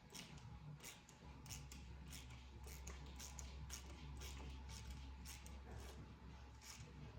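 Faint, irregular clicks of hand tools on metal, a few a second, as bolts are worked loose on an LS V8's cylinder head, over a low steady hum.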